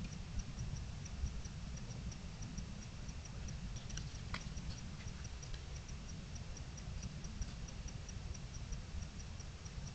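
A steady series of short, high chirps from a night-calling animal, about three or four a second, over a low rumble. A few sharp clicks sound about four seconds in.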